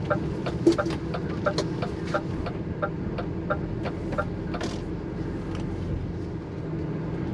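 HGV lorry's diesel engine running steadily, heard from inside the cab, with a regular ticking about three times a second from the turn indicator as the lorry turns.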